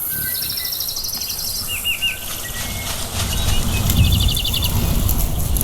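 Birdsong, rapid high trills and short whistled chirps, over a steady rushing background with a low rumble that swells about four seconds in. It is a nature-ambience test track played loud through the surround speakers.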